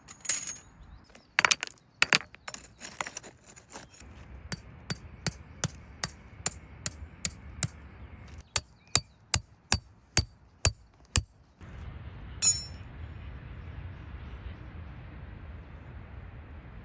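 A few irregular sharp knocks and clinks, then a run of evenly spaced sharp taps, about three a second, which stops about eleven seconds in, with one last click a little later.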